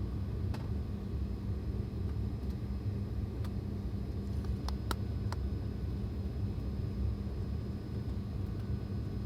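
Steady low drone of an airliner cabin on the ground, with a hum under a dull rumble, and a few faint clicks about halfway through.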